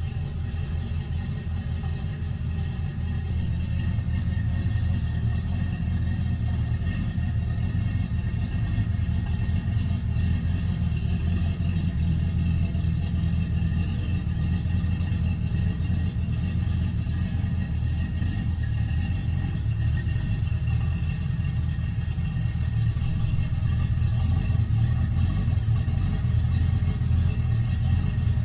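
V8 S10 pickup's exhaust through cheap TOTALFLOW Flowmaster-style mufflers with turn-downs, the engine idling steadily with a low rumble. The engine is still running a bit rich.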